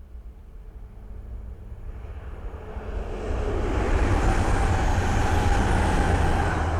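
A Class 222 Meridian diesel multiple unit approaching and passing on the main line. Its noise grows over the first few seconds into a steady loud rush with a deep rumble.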